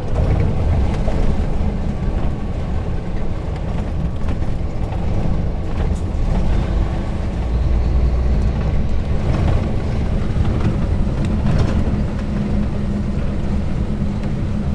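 Scania R420 truck's diesel engine running steadily on the road, a continuous low drone.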